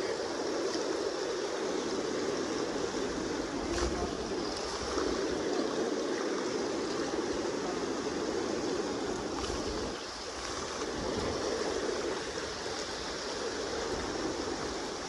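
Steady rushing of the Kenai River's fast current, an even wash of water noise without breaks.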